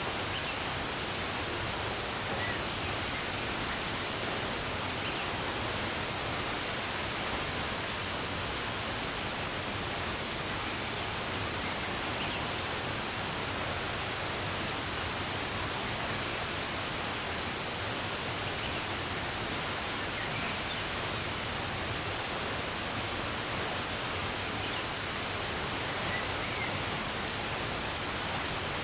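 Steady rushing of running water, even and unbroken, with a few faint, brief bird chirps now and then above it.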